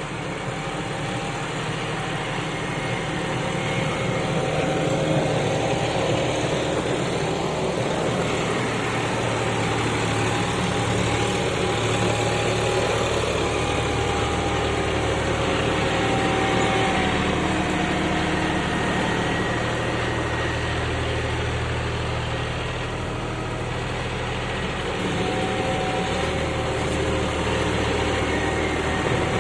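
John Deere 5210 tractor's three-cylinder diesel engine running steadily near idle, easing off slightly for a few seconds near the end before picking up again.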